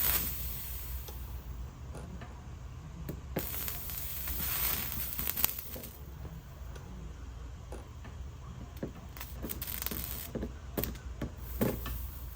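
Soldering iron working solder onto fluxed metal, with bursts of sizzling and crackling hiss, the longest about three seconds in, and scattered light clicks and taps, several close together near the end. A steady low hum runs beneath.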